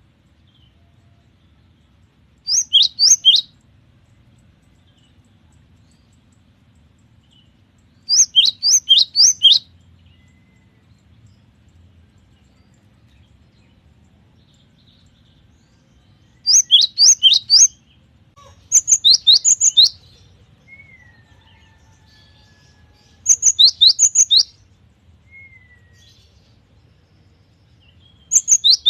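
Cinereous tit (gelatik batu) singing: six loud phrases, each of three or four quick sharp whistled notes that slide down in pitch, with pauses of a few seconds between them.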